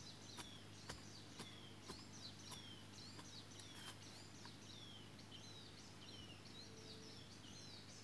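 A forest bird calling over and over: a quick series of short, high chirps that each sweep downward, about two a second. A few faint knocks come in the first half.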